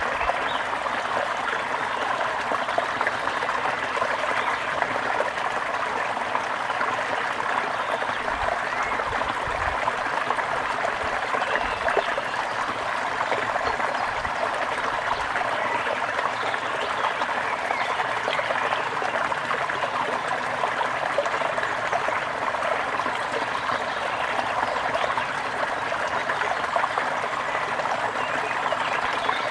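Water trickling in a steady, continuous stream, with birds chirping faintly over it.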